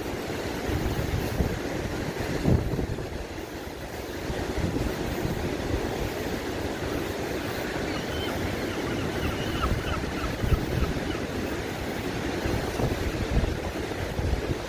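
Wind buffeting the microphone in gusts over the steady wash of sea waves on the shore.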